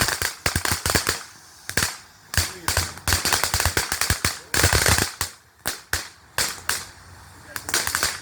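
Consumer aerial firework going off, a 'Pink Diamonds' multi-shot: a rapid, irregular series of sharp bangs and crackles that keeps going.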